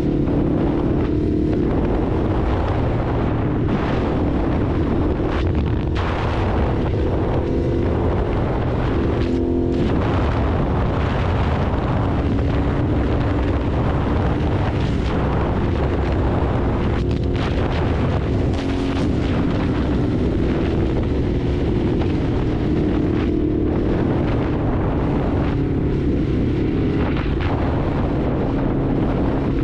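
Ducati Hypermotard's L-twin engine running steadily under way, its pitch drifting gently up and down as the throttle changes, over a heavy low rumble.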